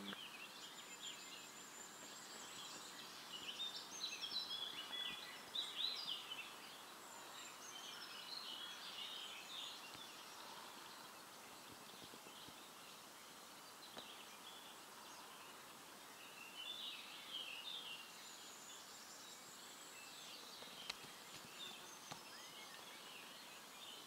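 Songbirds singing, several short chirps and warbling phrases overlapping, busiest a few seconds in and again about two-thirds through, over a faint steady hiss.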